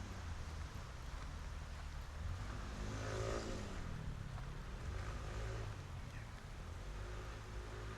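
A car drives past, its engine note dropping in pitch as it goes by about three seconds in, over a steady low rumble of street traffic.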